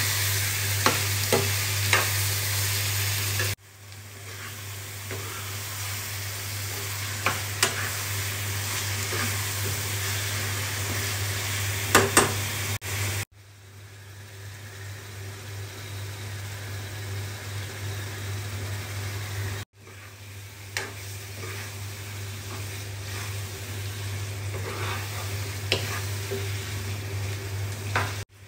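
Chicken, onion and tomato masala sizzling as it fries in a non-stick wok, with a metal spoon stirring and scraping, clinking sharply against the pan now and then. The sizzle cuts off abruptly three times and swells back up each time.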